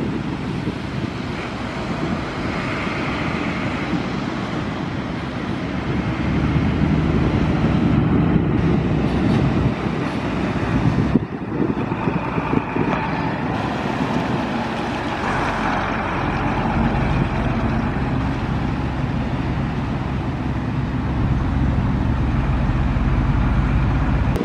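Diesel lorry engines running as trucks drive by, a deep low rumble growing stronger about two-thirds of the way through, with wind buffeting the microphone.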